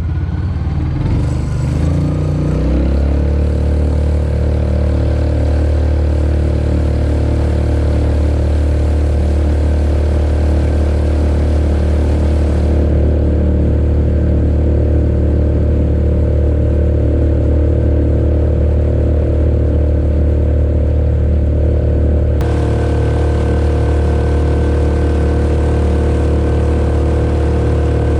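Engine of a Mokai jet-propelled kayak rising in pitch over the first couple of seconds, then running steadily at high throttle.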